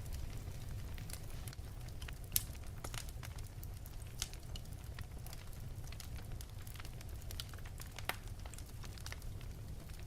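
Wood fire burning in an open fireplace: a steady low rumble of flames with scattered sharp crackles and pops, the loudest pop a little over two seconds in and another just after eight seconds.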